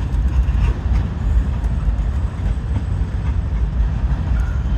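Freight cars of a transfer train rolling past, a steady low rumble of steel wheels on rail with a few faint clicks.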